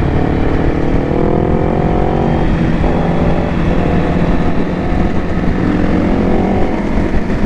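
Motorcycle engine accelerating, its pitch climbing for about two and a half seconds, then dropping at a gear change and climbing again, over heavy wind rumble on the microphone.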